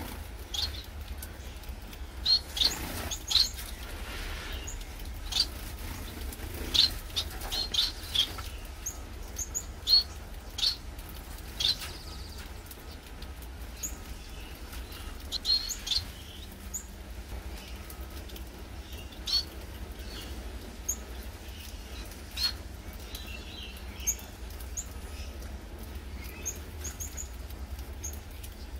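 Gouldian finches calling at a feeder: short, high chirps scattered irregularly, some louder than others, over a steady low hum.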